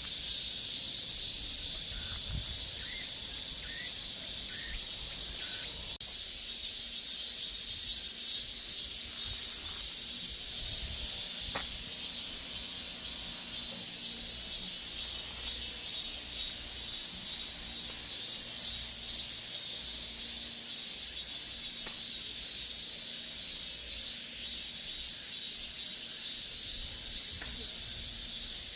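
Cicadas calling in a chorus: a dense, high-pitched, rapidly pulsing buzz. Part of the highest layer drops out about five seconds in.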